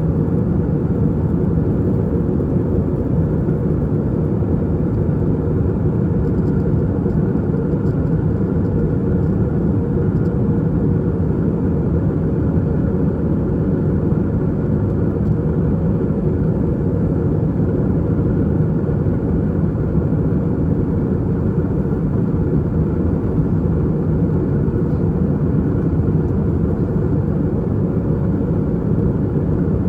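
Steady deep roar of an Airbus A320-232 cabin in flight: the IAE V2500 turbofan engines and the rush of air over the fuselage, heard from a rear window seat.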